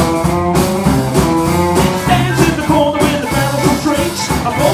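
Live rockabilly band launching into an up-tempo boogie, with drums keeping a steady beat under guitar and bass.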